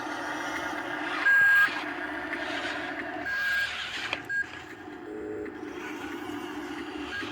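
Dump truck engine running steadily, with a loud, high, single-tone beep about a second in, another around three and a half seconds and a brief third shortly after.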